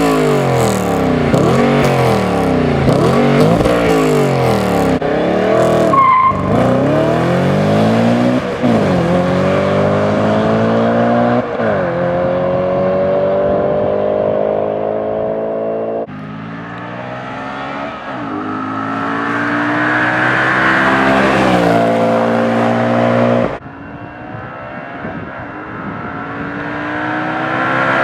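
B7 Audi RS 4's 4.2-litre V8 exhaust, running through catless downpipes and the stock cat-back: quick revs up and down for about five seconds, then hard acceleration up through the gears of the manual gearbox, the pitch rising in each gear and dropping at each shift. There is a short squeal about six seconds in.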